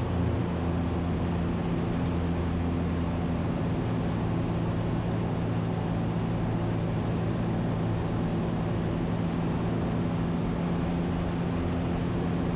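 Ikarus C42 light aircraft in flight: its engine and propeller drone steadily, heard from inside the cockpit.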